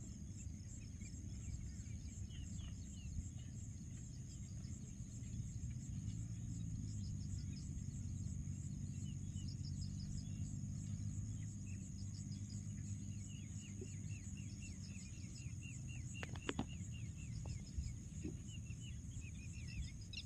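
Wild outdoor ambience: a steady high insect chirring with many short, repeated falling bird chirps over it, and a low rumble underneath. A few sharp clicks come about three-quarters of the way through.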